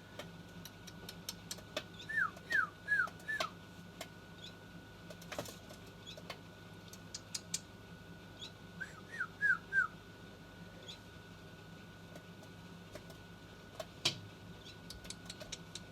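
Baby bird chirping in two quick runs of four short chirps, each sliding downward in pitch. Scattered light clicks and taps come between the runs.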